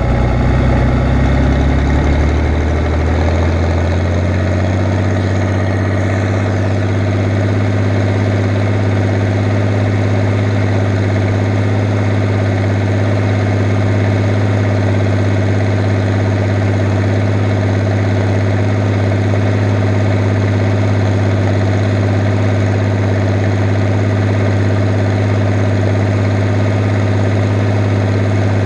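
Fiat 110-90 tractor's diesel engine running, rising in speed over the first few seconds and then holding a steady pitch.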